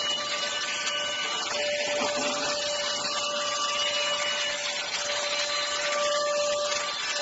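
Cordless handheld vacuum cleaner running steadily, a rushing of air with a constant whine from its motor.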